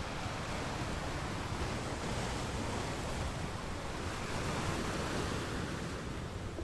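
A steady rushing noise that swells a little in the middle, with no distinct clicks or taps.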